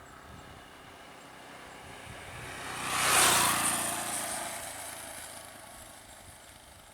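A motor vehicle driving past close by: its engine and road noise swell, peak about three seconds in, then fade away.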